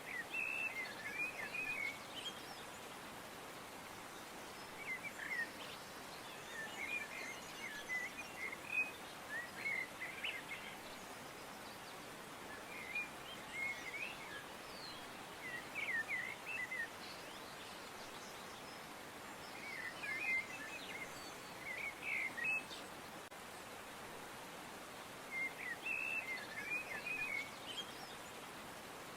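Birds chirping in short bursts of quick notes every few seconds over a steady background hiss.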